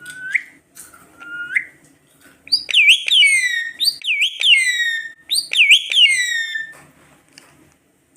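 Pet parrot calling: two short rising calls, then about four seconds of loud, clear whistled notes that swoop down and up in a quick run.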